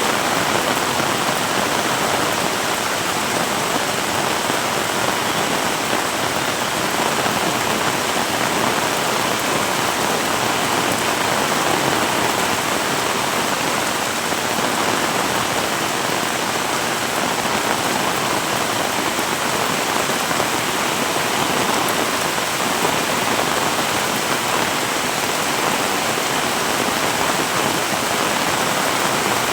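Heavy rain pouring down, a steady, dense hiss of drops with no letup.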